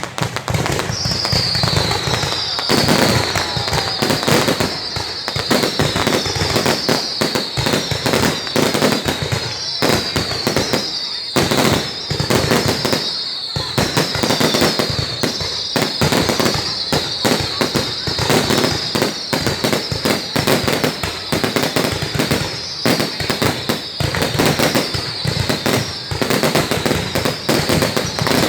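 Fireworks going off in a dense, continuous barrage of rapid cracks and bangs, with a high whistle falling in pitch over and over, about once a second.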